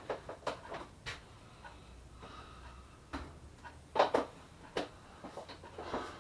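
Objects being handled and set down while tidying a room: scattered short knocks and taps, the loudest about four seconds in.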